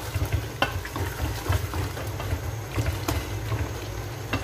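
Mutton, onions, tomatoes and spices frying in a pressure-cooker pot while a wooden spoon stirs them: a steady sizzle with scattered sharp clacks of the spoon against the pot.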